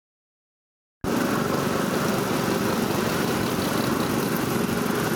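Racing car engines running steadily, a dense continuous engine noise that cuts in abruptly about a second in after dead silence.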